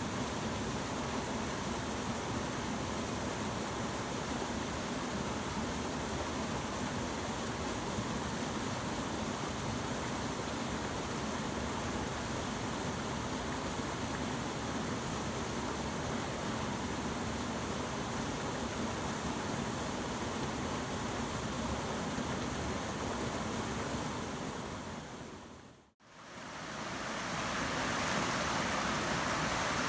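Small waterfall on the South Fork Snoqualmie River, water rushing and splashing in a steady hiss. Near the end it fades out briefly and comes back slightly brighter.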